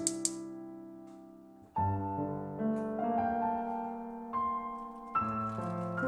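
Slow, gentle solo piano background music: soft chords struck every second or so and left to ring and fade. Two light clicks sound right at the start.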